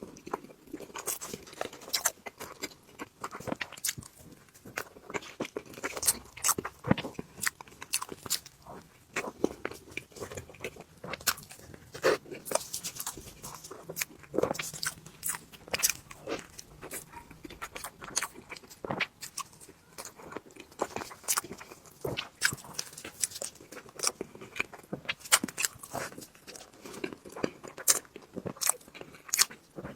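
Close-miked mouth sounds of someone eating tiramisu cake: irregular bites, chewing, and sharp wet clicks and crackles throughout.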